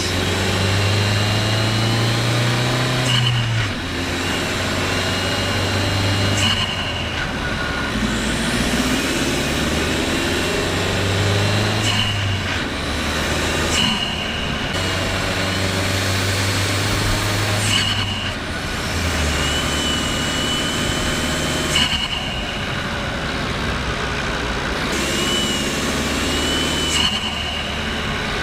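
Renault Kadjar's 1.2 TCe four-cylinder turbocharged petrol engine pulling uphill under load, heard over road noise. Its steady low note breaks off with a short drop in loudness several times and then picks up again.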